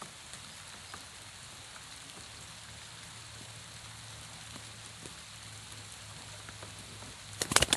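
Light rain falling on a pond's surface and the grass around it, a steady patter with faint scattered drop ticks. Near the end, a brief burst of sharp clicks and knocks.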